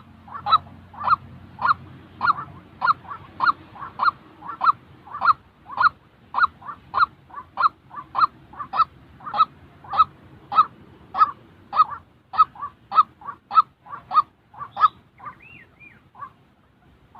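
White-breasted waterhen calling: one harsh note repeated about twice a second. Near the end the series breaks into a few looser gliding notes and scattered calls.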